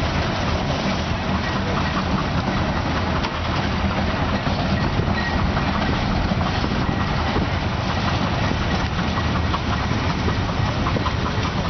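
Heavy farm tractor running with a steady, continuous low drone.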